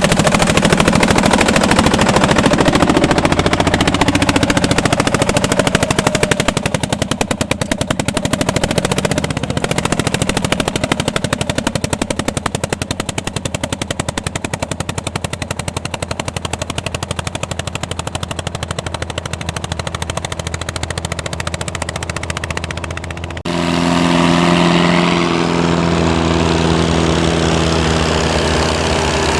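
Vintage tractor engine at work with rapid, hard, evenly spaced exhaust beats. About 23 seconds in it cuts abruptly to a tractor engine running steadily at a lower, more even pitch.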